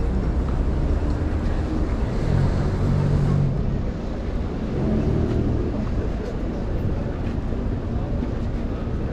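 Strong wind buffeting a cyclist's chest-mounted microphone as a steady low rumble, with city motor traffic running underneath.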